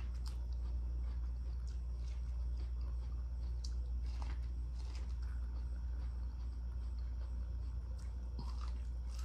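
A person biting and chewing tender boiled corn kernels straight off the cob: scattered short crunchy bites and wet chewing, over a steady low hum.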